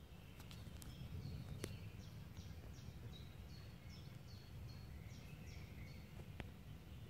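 A bird singing a run of about eight short, high notes, each dropping in pitch, at about three a second, over a faint low rumble, with a couple of sharp clicks.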